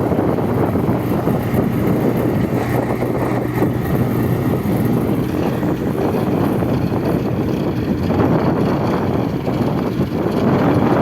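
Bobcat skid-steer loader's engine running steadily while the machine works. Its steady hum changes about eight seconds in.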